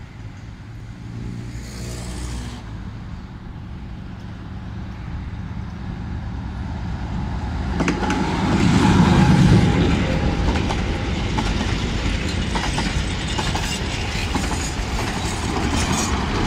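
Romanian-built Lxd2 narrow-gauge diesel locomotive approaching with its engine running, growing louder until it passes close by about eight seconds in. Then the carriages and wagons roll past with clicking wheels on the rails.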